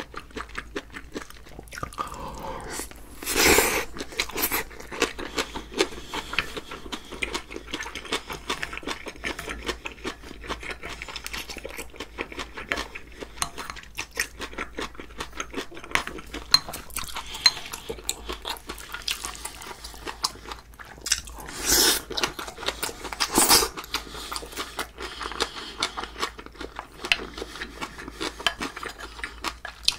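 Close-miked eating sounds: steady chewing and mouth clicks of a mouthful of sea squirt bibimbap, with a spoon scraping and knocking in a glass bowl. A few louder noisy bursts stand out, about three seconds in and twice near the two-thirds mark.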